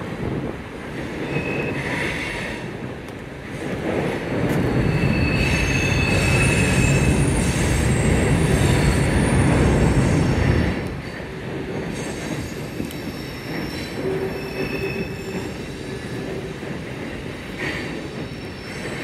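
CSX freight train's cars rolling across a steel girder bridge overhead: a steady rumble of wheels on rail, with high-pitched wheel squeal on and off. The rumble grows louder about four seconds in and eases off about eleven seconds in.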